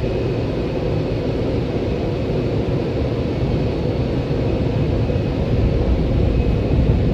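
Bank of McNeil car-wash air dryers blowing, a steady, heavy air noise heard from inside the car, growing slightly louder toward the end.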